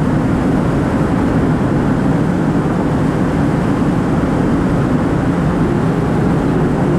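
Steady road and engine noise inside a 2004 Ford Focus cruising at highway speed, with an even low drone that does not change.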